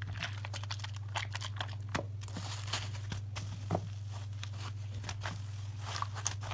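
Soap lather being squeezed and worked by hand: a run of irregular small clicks and pops, over a steady low hum.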